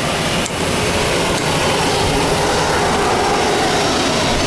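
Jet noise of an aircraft flying overhead, a steady rushing engine sound that swells slightly partway through. A faint click comes about half a second in.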